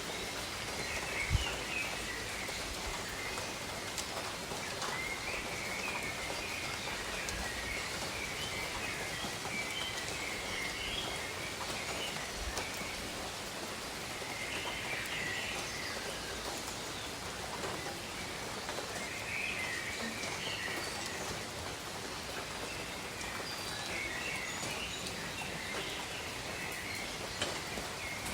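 Steady rain falling over tropical jungle, with birds calling in short runs of chirps every few seconds.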